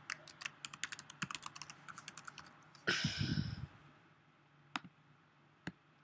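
Typing on a computer keyboard, a rapid run of key clicks, broken about three seconds in by a short, louder breathy noise. Two single clicks follow near the end.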